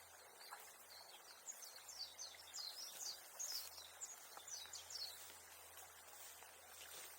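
A small bird singing faintly: a quick run of about a dozen short, high, down-slurred chirps between about one and a half and five seconds in.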